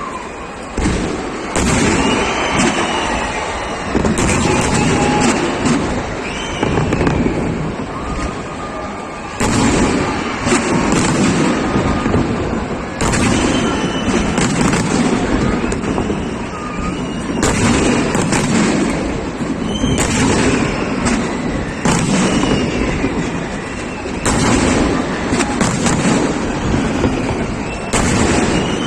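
Fireworks going off: many bangs and crackles in quick succession, with rising and falling whistles between them.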